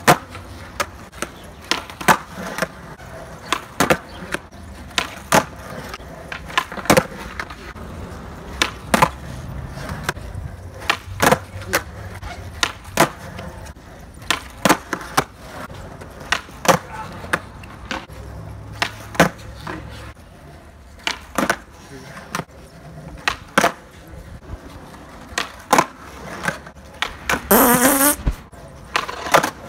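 Skateboard with Independent trucks and Spitfire wheels doing nollies on concrete one after another, about one every two seconds: the sharp crack of the nose popping against the ground and the clack of the board landing, with the wheels rolling between tricks. Near the end a voice cries out briefly, rising in pitch.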